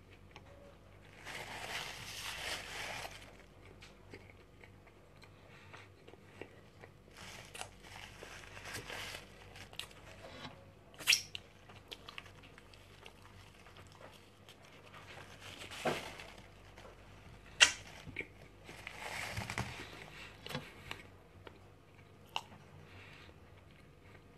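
A person chewing mouthfuls of hamburger in several spells, with a few sharp clicks about halfway through.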